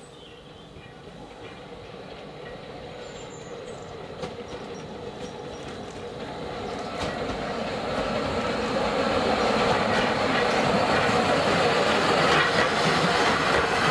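Narrow-gauge train approaching and growing steadily louder, with a few sharp clicks from its wheels on the rails.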